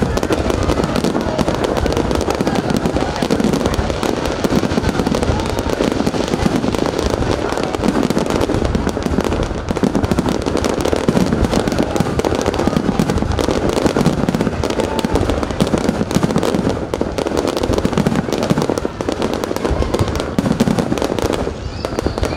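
Aerial fireworks display going off continuously: many bursts in quick succession, popping and crackling without a break.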